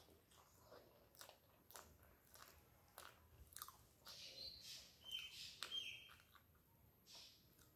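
Faint close-up eating sounds: wet chewing and lip smacks of a mouthful of rice and curry eaten by hand, with many small clicks. Around the middle, fingers squishing and mixing rice on a steel plate add a louder patch of noise.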